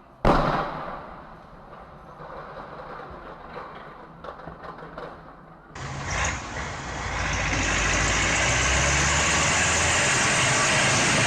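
A vehicle collision picked up by a dash cam: a sudden loud crash a moment in that dies away over about a second, then a few small knocks. Just before six seconds the sound switches abruptly to a steady, louder rush of engine and road noise.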